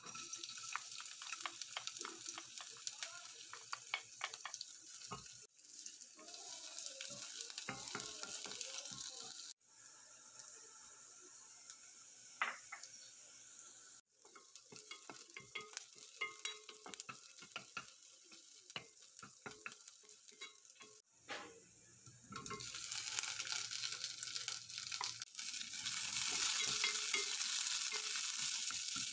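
Chopped onion, garlic and ginger sizzling in hot oil in a pot, stirred with a wooden spoon that clicks and scrapes against the pan. The sound breaks off abruptly several times, and the sizzle grows louder about three-quarters of the way through.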